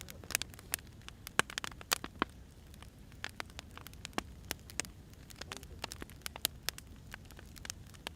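Firewood burning in a fire: irregular sharp crackles and pops, several a second, over a low steady rumble.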